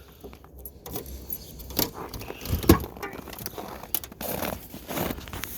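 Keys jangling and the clicks and knocks of a car door and latch being handled, with a heavier thump a little before halfway.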